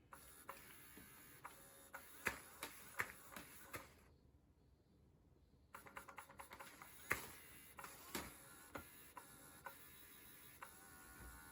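Faint, scattered light taps and clicks, a dozen or more at uneven intervals, with a short quiet gap in the middle.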